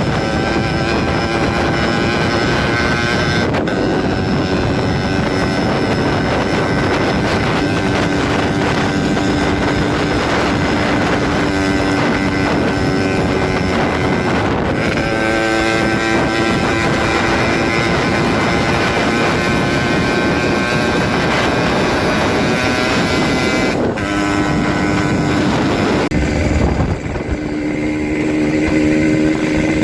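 Motorcycle with a gutted 'bobokan' exhaust running loudly, its engine note stepping up and down several times, with wind on the microphone.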